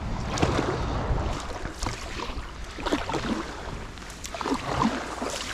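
Kayak paddle strokes in very shallow creek water: splashing and dripping, with scattered light knocks of the paddle. The water is so low it is barely deep enough to paddle.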